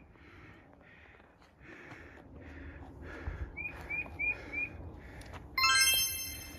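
A bird calling in a quick run of four short, repeated, hooked notes, heard as laughing, over a faint hiss that pulses about twice a second. Near the end a loud, bright chime sound effect rings out.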